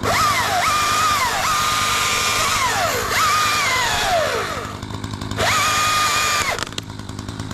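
Chainsaw revved to full throttle in several bursts of about a second each, the pitch climbing fast, holding steady, then sagging as the throttle is let off, with a short pause before the last burst.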